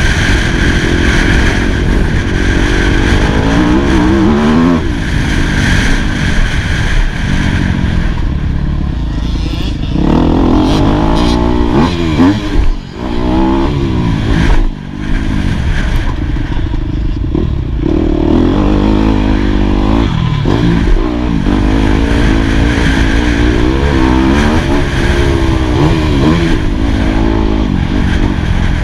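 2018 Yamaha YZ250F's four-stroke single-cylinder engine revving up and down continuously as it is ridden hard around a motocross track. The throttle is shut briefly twice about halfway through.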